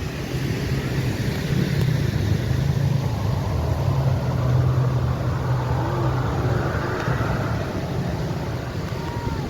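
Low, steady engine drone that swells through the middle and eases off near the end.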